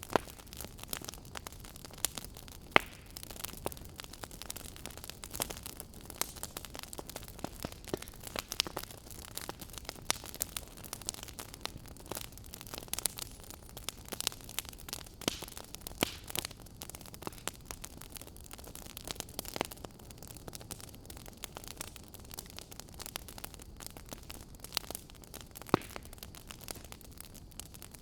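Wood fire crackling in a fireplace: a steady low hiss with irregular sharp pops and snaps.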